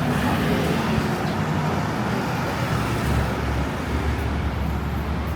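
Road traffic going by: engine and tyre noise, with a deeper engine rumble swelling about three seconds in.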